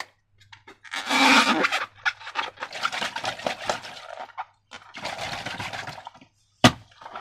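Crackly, squishy handling noise from slime and balloons being worked by hand, coming in irregular bursts with short gaps, and one sharp click near the end.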